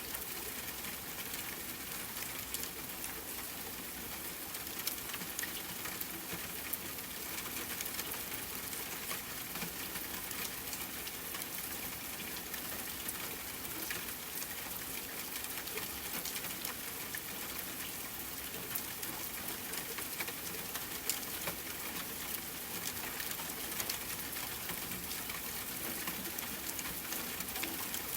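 Steady rain hiss with many scattered sharp ticks through it, in a layered forest-rain and campfire ambience.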